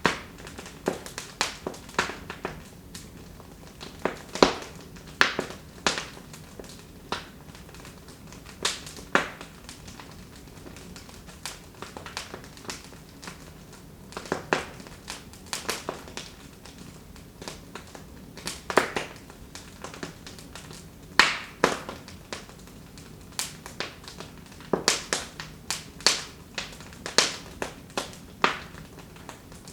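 Wood fire in a fireplace crackling: irregular sharp pops and snaps, several clustered together at times, over a faint steady hiss.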